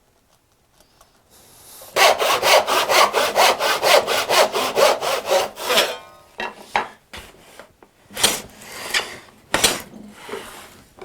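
Hand saw cutting wood: it starts about two seconds in with a run of fast, even strokes for about four seconds, then slows to a few separate strokes.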